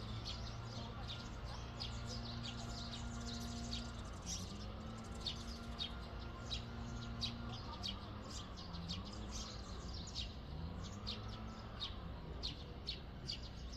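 Small birds chirping, with many short, high chirps throughout. Underneath is a steady background hum with a few long, wavering low tones.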